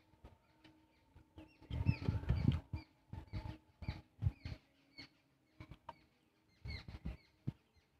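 Close-up wet chewing and lip smacking of a man eating muri ghonto, rice cooked with fish head, by hand: a string of quick mouth clicks and smacks, busiest about two seconds in.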